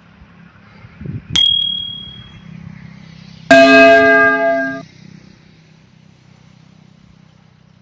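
A single sharp ding that rings briefly, then a horn sounding once for just over a second and cutting off, over a faint steady low hum.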